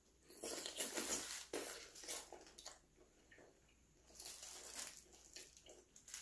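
Close-miked wet eating sounds of octopus in spicy sauce being sucked and chewed, in a burst lasting about two seconds, then a shorter burst of wet squelching about four seconds in.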